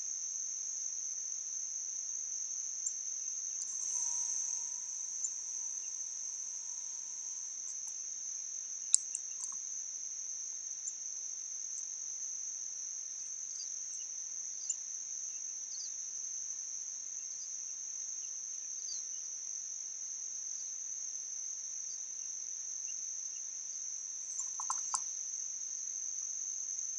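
Crickets or similar insects chirring in a continuous, steady high-pitched drone, with a few faint short ticks and chirps scattered through it.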